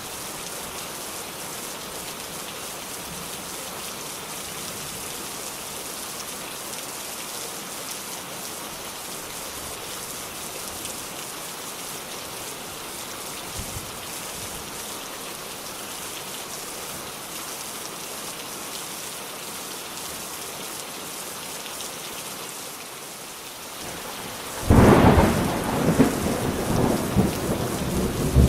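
Steady rain falling, an even hiss; about three seconds before the end a sudden loud thunderclap breaks in and rumbles on.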